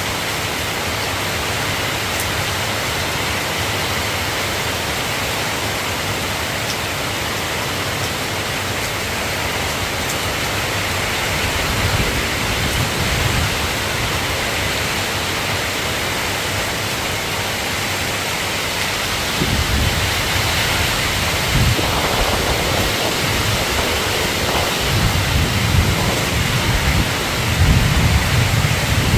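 Steady rain hiss. Low rumbles of thunder come in briefly about twelve seconds in and roll on through the second half.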